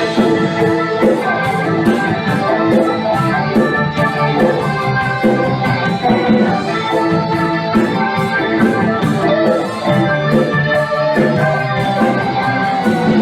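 A band playing an instrumental passage on guitar and drums with a steady beat, no singing.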